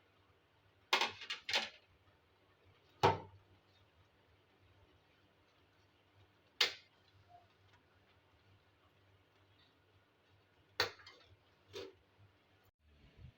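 A few separate clinks and knocks of small household objects, such as dishes or cutlery, being handled and set down: two close together about a second in, then single ones spread out with long pauses between.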